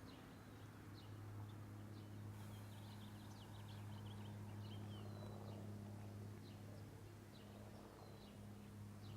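Faint bird chirps, short and high, scattered through and clustered about three seconds in, over a low steady hum.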